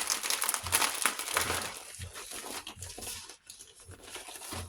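Diamond painting kit's packaging crinkling and rustling as it is folded up and packed away by hand, busiest in the first two seconds and then softer, scattered rustles.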